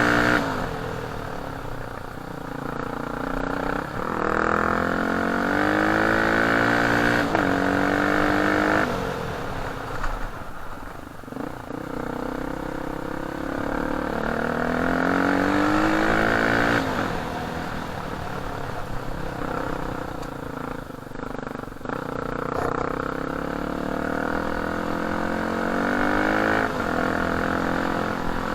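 Off-road dirt bike engine being ridden. It revs up under throttle, its pitch climbing, then drops back, several times over in a repeating pattern.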